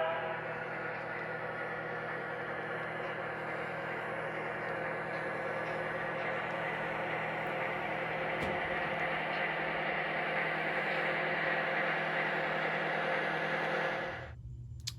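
Lionel Vision Line genset switcher, an O-scale model diesel locomotive, running with its onboard engine sound giving a steady drone. A deeper tone joins about halfway through, and the drone fades away shortly before the end.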